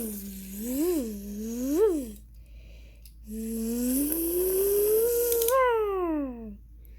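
A person's voice making a toy-car engine noise: two short swooping "vroom" sounds, then a longer buzzy one that climbs slowly in pitch and drops away near the end.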